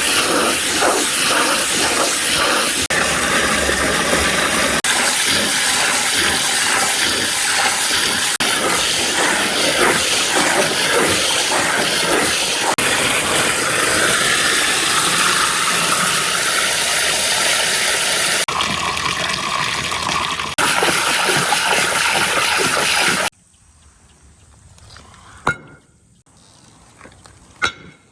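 Many glass marbles rolling and rattling down a marble-run track in a dense, continuous rush. It cuts off suddenly about 23 seconds in, leaving a few single clicks of marbles.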